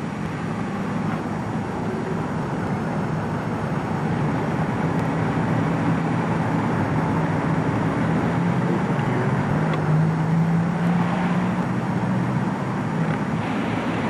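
Car running, a steady engine hum with road noise.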